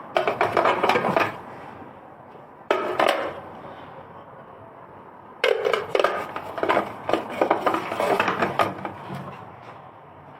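Hard parts of a juicer clattering as they are handled, knocked together and set down, in three bursts of knocks, the last the longest.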